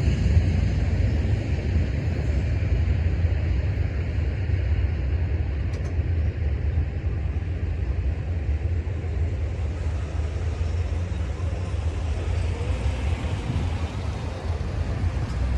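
Freight train cars rolling through a grade crossing, a steady low rumble that slowly eases.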